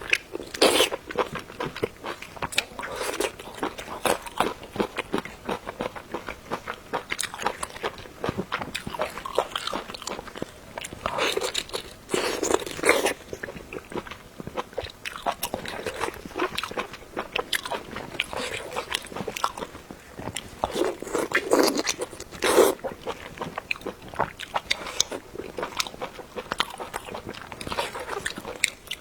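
Close-miked eating: steady chewing and biting with wet, crunchy mouth noises, louder bursts of crunching every several seconds.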